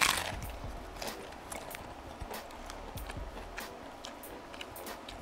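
A crunchy bite into a hard-shell fried mahi fish taco, then chewing with many small irregular crunches.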